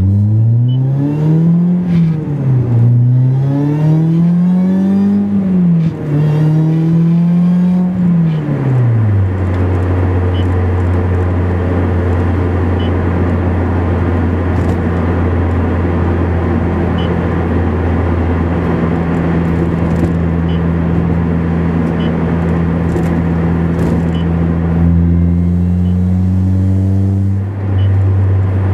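Roots-supercharged Honda S2000 four-cylinder engine with a 3-inch dual exhaust, pulling through the gears: the note climbs and drops back at each shift over the first nine seconds or so. It then settles into a steady drone at constant speed, climbing slightly again near the end.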